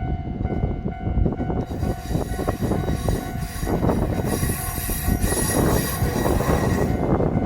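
Ichibata Electric Railway electric train moving on the rails with a steady rumble; high-pitched wheel squeal sets in about two seconds in and is loudest around the middle.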